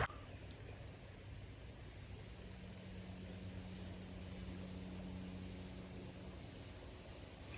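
Insects, crickets, trilling in a steady high-pitched chorus.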